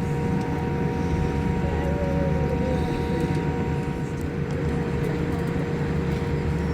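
Steady cabin noise inside a Boeing 787-8 airliner: a low, even rumble with a few faint constant whining tones above it.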